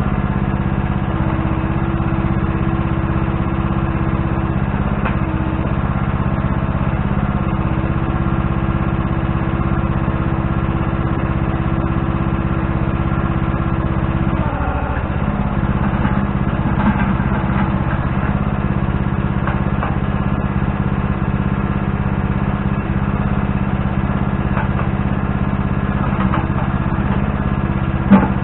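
Engine of earthmoving equipment running steadily. Its pitch dips briefly and recovers about halfway through, and there is a sharp knock near the end.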